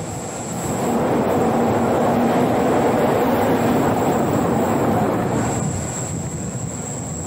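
Rhaetian Railway train running on the Arosa line, a steady rumble of wheels on rail that swells louder for about four seconds in the middle and then eases back.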